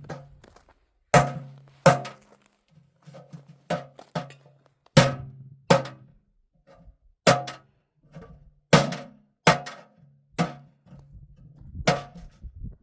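A series of heavy thuds, about a dozen, irregularly spaced roughly a second apart, each with a short low ringing after the blow.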